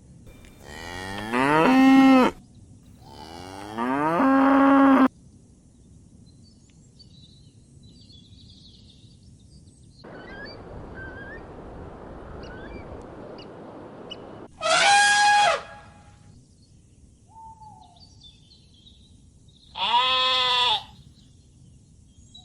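Cattle mooing in four separate calls. The first two rise in pitch and cut off abruptly, and the last two are shorter and higher. A stretch of steady hiss comes in the middle.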